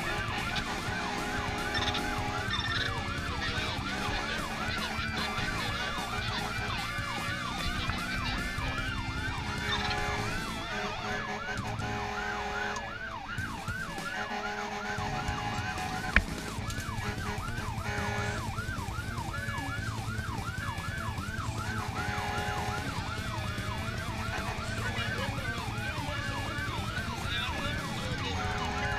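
Fire brigade rescue truck's electronic siren in a fast yelp, sweeping up and down several times a second, over the low rumble of the truck's engine. A single sharp click sounds about sixteen seconds in.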